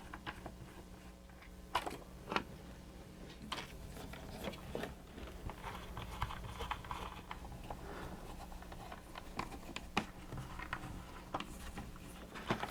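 Scattered light clicks and taps of small plastic parts being handled and pried apart on a mechanical animated display, with faint rustling in between and a steady low hum underneath.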